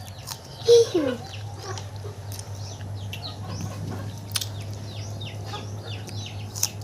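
Small birds chirping over and over in quick falling notes, with chickens clucking, including a short loud call about a second in, over a steady low hum.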